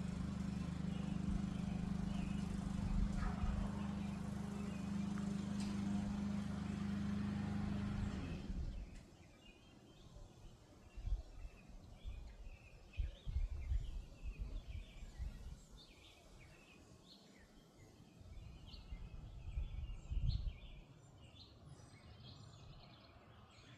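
A loud, steady mechanical hum, like a motor running, stops suddenly about eight seconds in. After that, birds give short high chirps against quiet outdoor background, with a few low bumps.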